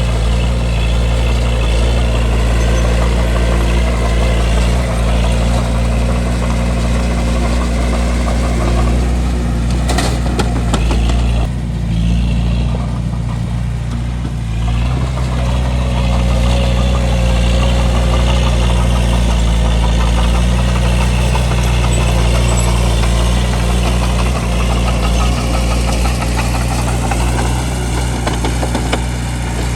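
Bulldozer's diesel engine running steadily, with a short run of clicks about ten seconds in and a few seconds where the engine eases off a little before picking back up.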